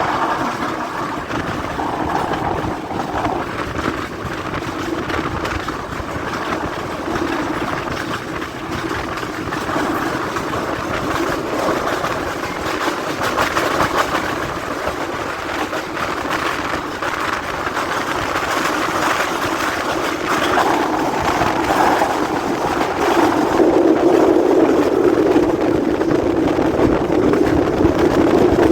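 Express passenger train under way, its wheels rumbling and clattering steadily over the rails. The noise grows louder over the last few seconds.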